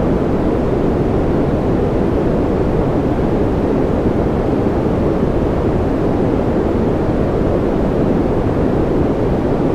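A steady, deep rushing noise with no change in level or pitch: a continuous sleep-aid noise track.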